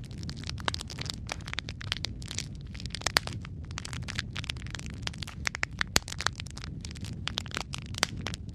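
Wood fire crackling, with many irregular sharp pops and snaps over a steady low rumble of flames.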